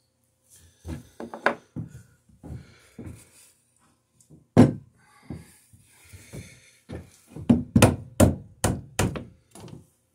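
Irregular wooden knocks and thunks, closing in a quick run of sharp knocks near the end.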